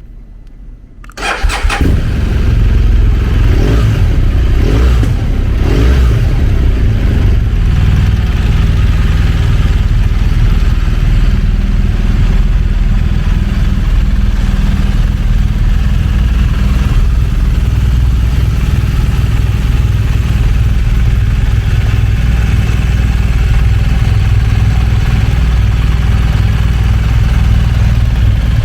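BMW R1200GS boxer-twin engine starting about a second in, then idling steadily.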